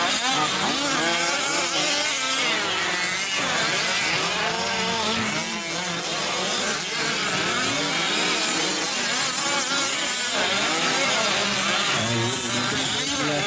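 Several 5th-scale RC trucks' small two-stroke gas engines racing, their pitches rising and falling over one another as they rev up and back off.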